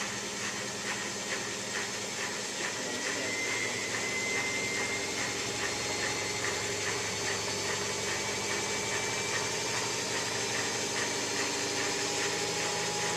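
Miele W3744 washing machine spinning, its drum and motor giving a steady hum with a faint regular pulse and a thin whine that rises slowly as the spin speeds up.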